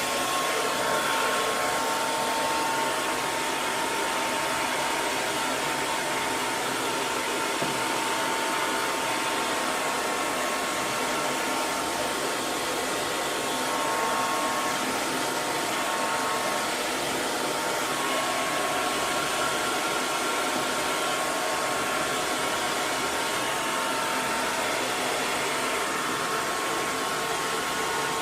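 Hair dryer running steadily: a constant rush of blown air with a faint motor whine on top.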